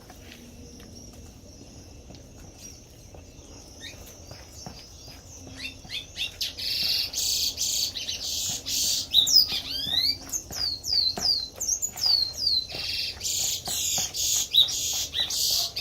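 A bird singing loudly in rapid runs of high chirps and sweeping whistles, starting about six seconds in after a quiet stretch.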